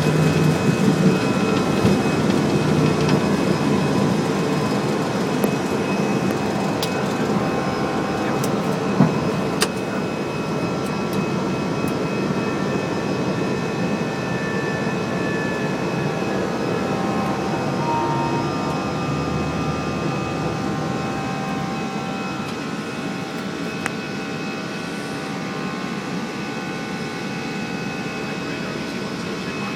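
Airbus A319 cockpit during takeoff: steady jet engine and airflow noise with several steady whining tones, slowly getting quieter, and a few short clicks about a third of the way in.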